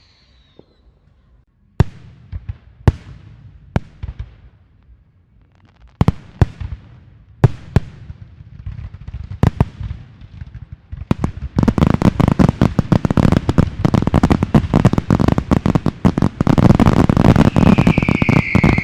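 Fireworks and firecrackers going off: a whistle dying away at the start, then single sharp bangs about a second apart, then from about eleven seconds in a dense, rapid barrage of crackling bangs. A whistling rocket sounds near the end.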